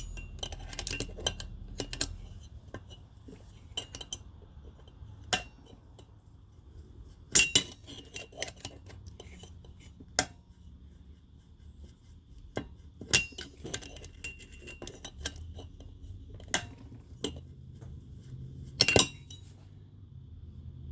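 Metal hand tools clinking and tapping against metal engine parts: scattered sharp clinks, some ringing briefly, with a few louder strikes.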